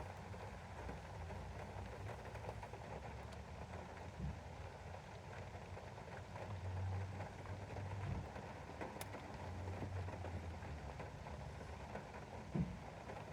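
Rain falling on a window pane, a steady patter, over a low rumble that swells twice. A few dull knocks come through, the loudest near the end.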